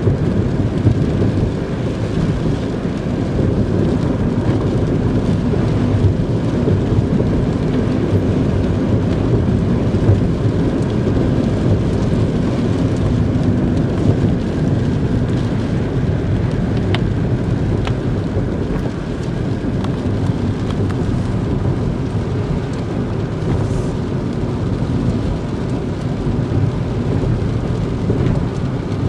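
Steady low rumble of a car being driven, road and engine noise heard from inside.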